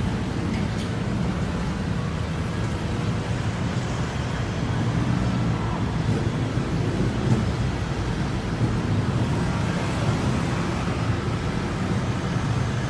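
Steady low rumble of a train running, unchanging throughout with a faint hum over it.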